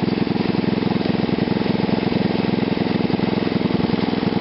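Gasoline engine fed through a homemade GEET fuel reactor, idling steadily at low RPM with a fast, even firing beat.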